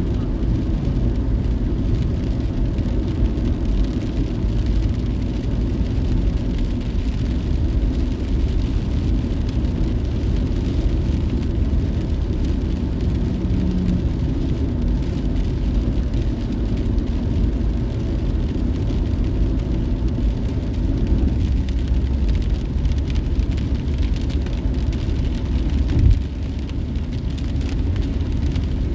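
Steady low rumble of a car driving: engine and tyre noise at an even level, with a short thump near the end.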